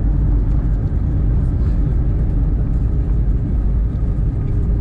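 Steady, loud low rumble of an Airbus A320's engines and airflow, heard from inside the passenger cabin.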